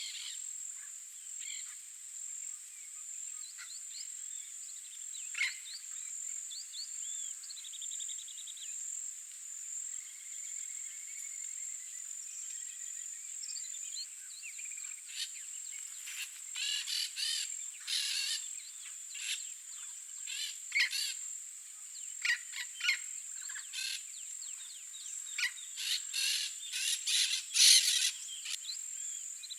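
Wild birds calling over a steady high-pitched insect drone. Scattered chirps and short trills at first, then from about halfway many short, sharp calls come thick and loud, the loudest near the end.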